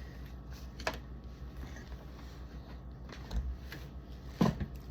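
A few scattered light clicks and knocks of objects being handled, the sharpest one near the end, over a low steady hum.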